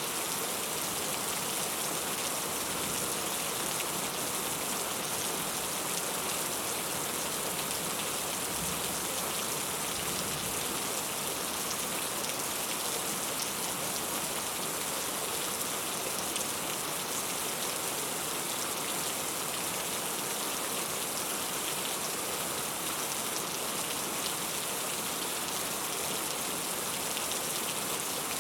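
Heavy rain falling steadily, a constant even hiss of drops with a few sharper individual drop ticks now and then.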